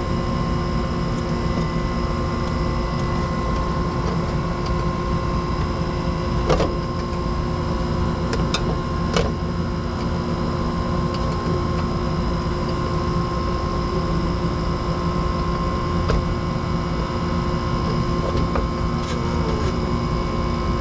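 Steady hum and constant high whine of running machinery, with a few sharp clicks of hand tools working on wire connections about six and a half, nine and sixteen seconds in.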